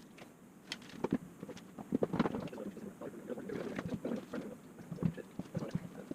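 Wooden honey frames knocking and clattering against each other and the extractor basket as they are slotted into a 50-frame honey extractor, in irregular knocks.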